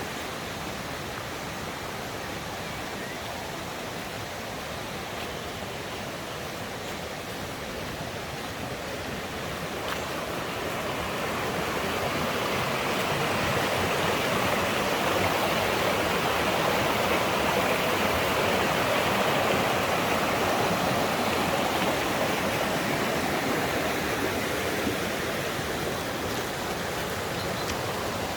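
Mountain stream rushing over rocks, a steady flow of water noise. It grows louder from about ten seconds in, is loudest around the middle, and eases a little near the end.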